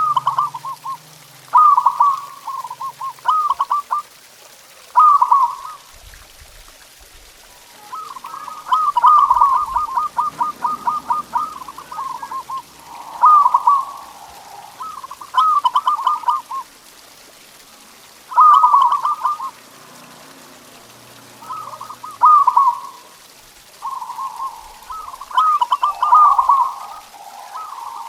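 Zebra dove (perkutut) cooing: repeated phrases of quick staccato notes every few seconds, with one longer rapid run about eight seconds in.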